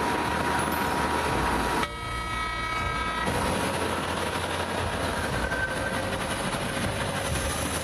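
A heavy vehicle's engine running loudly, with a horn blast lasting about a second and a half, about two seconds in.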